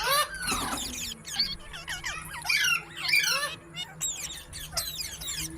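Parrots chirping and squawking, a dense run of quick, overlapping calls that slide up and down in pitch.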